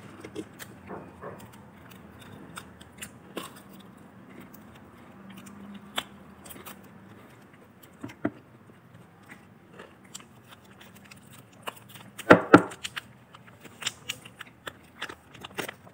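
Chewing and biting into crispy KFC fried chicken, with scattered small crunches and clicks and a louder burst of crunching about twelve seconds in.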